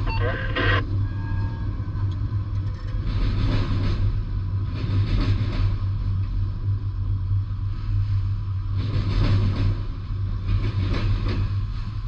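A freight train of autorack cars rolling past a grade crossing, heard from inside a car. The wheels keep up a steady low rumble, and a sharper clatter swells every couple of seconds as the car trucks go by.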